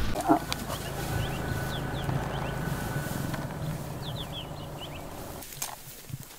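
Birds chirping in short, high, descending notes, in two clusters, over a low steady rumble that fades out near the end.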